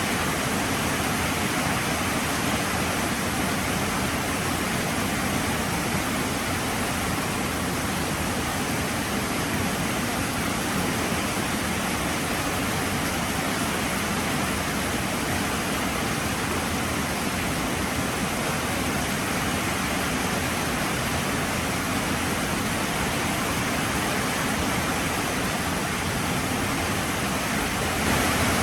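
Heavy rain falling steadily, an even continuous hiss and patter.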